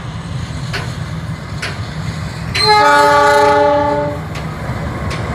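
A CC206 diesel-electric locomotive sounds its horn once, a steady chord held for about a second and a half a little past the middle. Under it runs the low, steady rumble of the passing train, with a few sharp clicks from wheels crossing rail joints.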